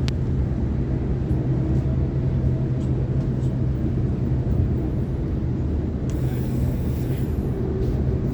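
Sydney Trains Waratah electric multiple unit running at speed, heard from inside the carriage: a steady low rumble of wheels on rail with a steady motor hum, a few light clicks, and a brief hiss about six seconds in.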